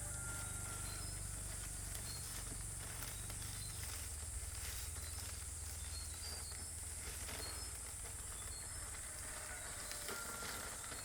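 Outdoor ambience: a steady high-pitched hiss with a few faint, short chirps and scattered light ticks.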